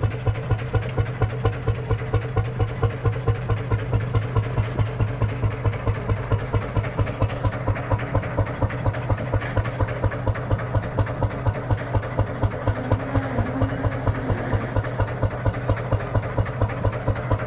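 Lanz Bulldog tractor's single-cylinder two-stroke hot-bulb engine idling with a steady, even beat, running after its hot bulb was preheated with a repaired blowtorch.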